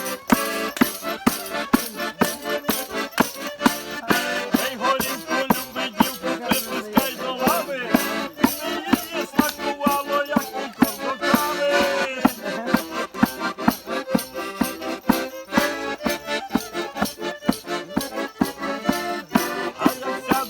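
Bukovinian folk band playing a fast kolomyika: an accordion-led melody over a quick, steady percussion beat.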